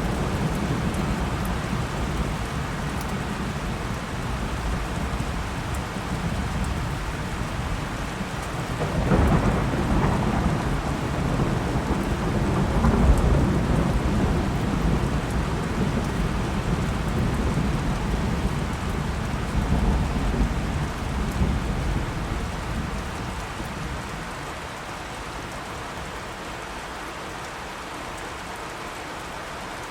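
Steady rain with rolling thunder. A crack of thunder about nine seconds in sets off a long, loud rumble that dies away over the last few seconds, leaving only the hiss of rain.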